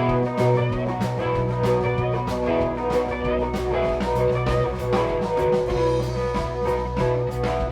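A rock band playing an instrumental passage of a blues-rock song live: electric guitar, bass and drums over a steady beat.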